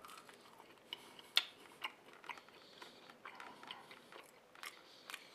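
A man biting into and chewing a thick-cut French fry: faint, scattered soft crunches and clicks, the sharpest about a second and a half in. The fry is only a little crisp, still soft and potatoey inside.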